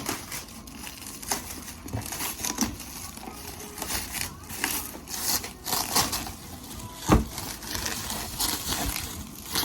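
Packaging crinkling and rustling as it is handled, with small irregular knocks, and one sharper knock about seven seconds in.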